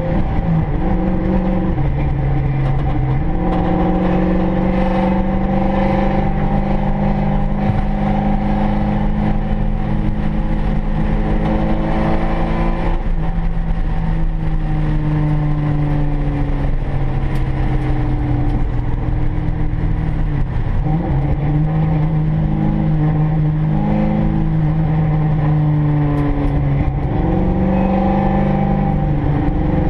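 A 1995 Ford Mustang Cobra R's 5.8-litre V8 running hard from inside the cabin, its pitch stepping up and down several times as the driver shifts the manual gearbox and lifts off, over road and wind noise.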